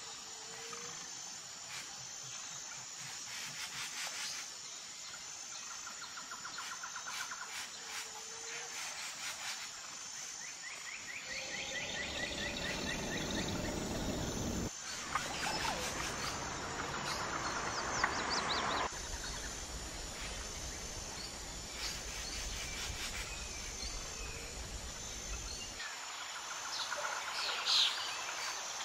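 Outdoor nature ambience: short bird chirps and trills over a steady high insect-like hum, with the background changing abruptly several times.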